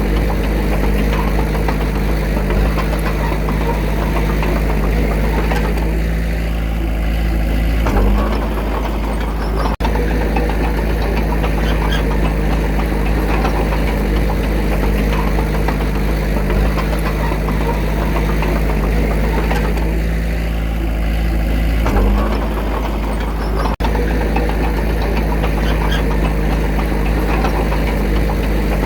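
Small crawler bulldozer's diesel engine running steadily under work, its note dipping and then swelling briefly twice, about fourteen seconds apart.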